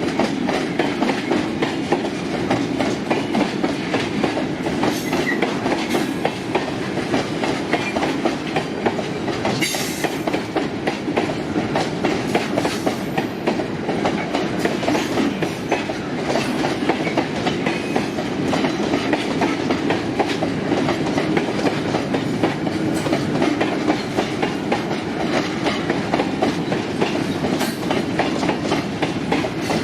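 Freight wagons of a long train rolling past on a climbing grade, their steel wheels clacking steadily over the rail joints under a continuous rumble. A brief sharp clank sounds about ten seconds in.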